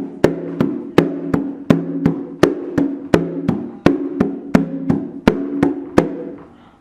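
Atabaque hand drum struck by hand in a steady, even pattern of sharp slap strokes, about three a second, with the drumhead's low tone ringing between them. It stops about six seconds in and the ring dies away.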